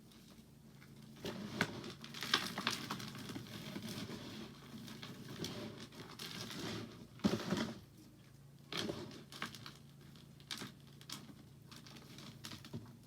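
Soap crunching and crumbling with irregular crackles and crisp clicks, loudest in a couple of bursts, over a faint low hum.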